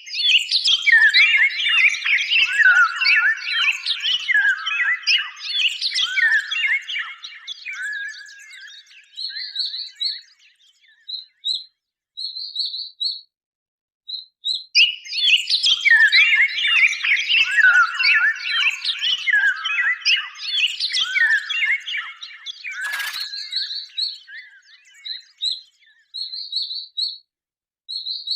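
A flock of small birds twittering and chirping together in a dense chorus that swells twice. In between it thins to short, high chirps repeated a few at a time. A brief burst of noise comes about three quarters of the way through.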